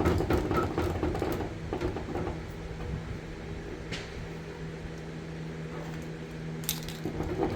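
Paint pen being shaken and its tip pressed to start the paint flowing: a quick run of clicks and rattles for about two seconds, then a couple of single taps. A steady mechanical hum runs underneath.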